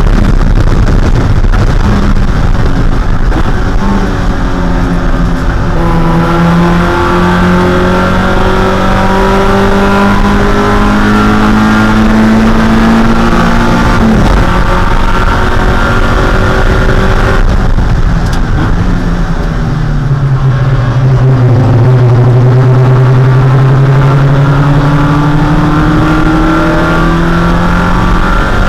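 Mazda Miata's 1.6-litre inline-four race engine pulling hard, its pitch climbing slowly, then dipping about two-thirds of the way through and climbing again, over loud wind and road noise.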